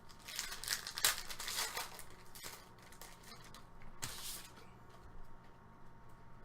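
Panini Prizm football trading cards being handled and slid against one another: short dry rustles, busiest in the first two seconds, with another brief rustle about four seconds in.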